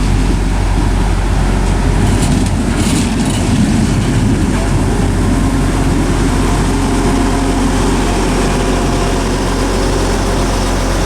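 Class 175 diesel multiple unit idling at a station stop, a steady low engine hum, with a short hiss about two to three seconds in.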